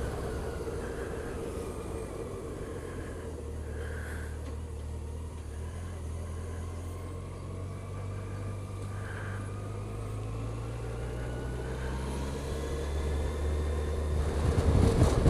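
Motorcycle engine running steadily under way, a low even drone with road and wind noise, growing louder near the end.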